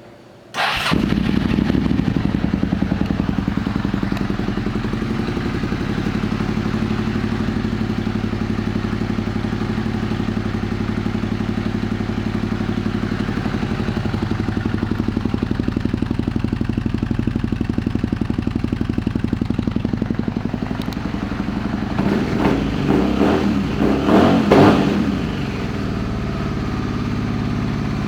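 2000 Suzuki SV650's 90-degree V-twin starting about half a second in and idling steadily, then revved briefly several times a little over twenty seconds in before settling back to idle.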